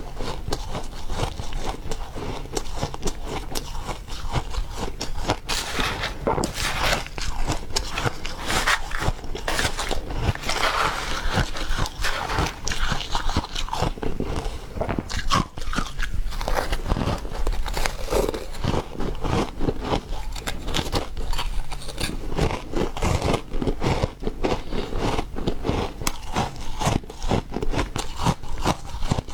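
Refrozen ice being bitten and chewed close to the microphone: a continuous run of crunching and crackling.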